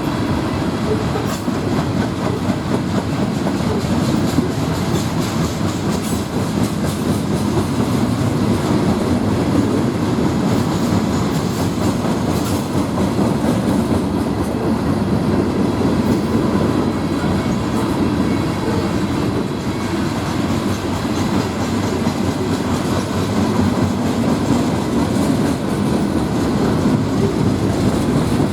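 Norfolk Southern freight train's cars rolling past, a steady loud rumble and rattle of wheels on the rails.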